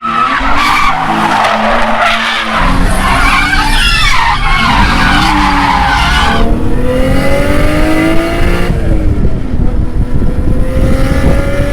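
Car drifting: tyres squealing for the first half, then the Nissan 350Z's V6 engine revving hard, its pitch climbing, with a brief dip before climbing again.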